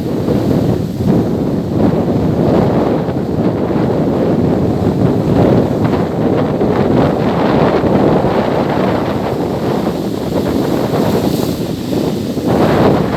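Strong wind buffeting the microphone in gusts, a loud rumbling rush, with surf breaking on the beach behind it.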